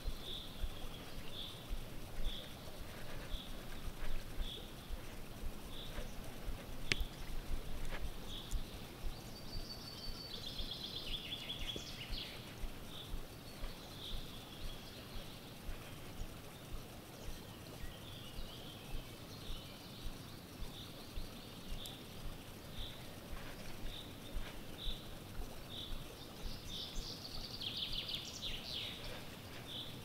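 Songbirds calling: one bird repeats a short high chirp about one and a half times a second throughout, while another breaks in with brief bursts of song about a third of the way in and near the end. Low rumble and a few sharp clicks lie underneath.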